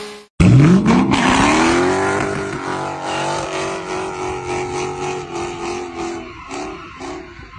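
Dodge Challenger's engine revving up sharply and held at high revs while the car drifts with its rear tyres spinning and smoking; near the end the revs pulse up and down a few times a second.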